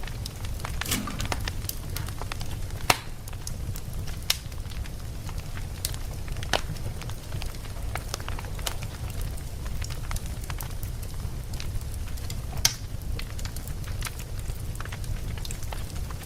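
Campfire burning: irregular sharp crackles and pops from the burning wood, over a steady low rumble of the flames. A handful of pops stand out louder than the rest.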